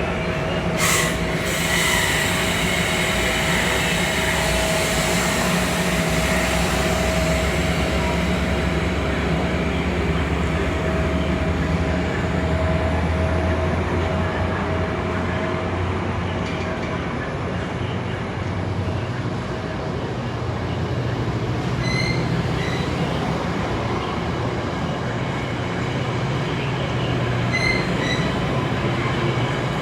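VRE commuter train's diesel locomotive running steadily while the train stands at the station, a loud low drone with a steady whine that fades out about halfway. A sharp click about a second in, and two brief high tones in the second half.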